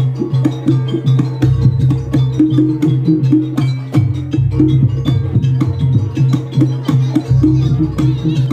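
Live Banyuwangi gamelan music: drums and struck percussion playing a fast, dense rhythm over steady low ringing tones.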